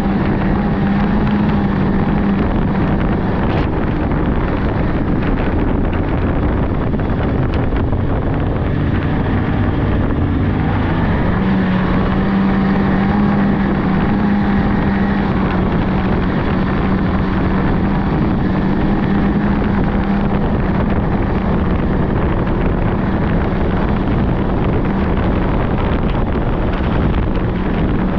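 Polaris 600cc two-stroke snowmobile engine running at a steady trail speed, with wind buffeting the microphone. The engine note eases off a few seconds in and picks back up after about ten seconds.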